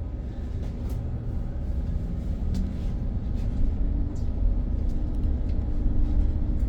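Inside a moving BYD battery-electric bus: steady low road rumble with a faint hum from the drive, its pitch rising slightly about four seconds in as the bus picks up speed, and a few faint rattles.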